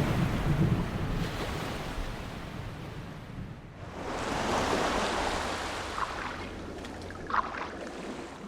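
Sea waves washing, a steady rush that swells about four seconds in and fades out near the end.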